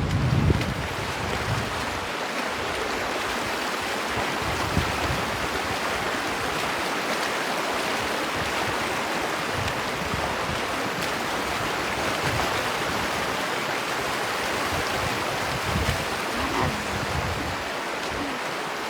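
Steady rush of river water flowing over rocks, with wind buffeting the microphone in the first second or so.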